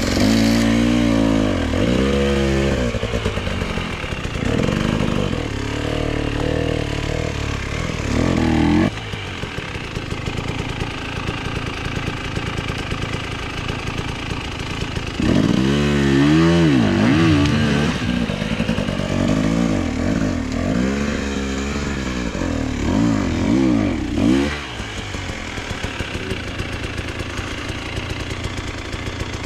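Enduro motorcycle engine revved hard again and again, its pitch swinging up and down, for about nine seconds, then running low. About fifteen seconds in it revs repeatedly again for some nine seconds before dropping back to a low idle.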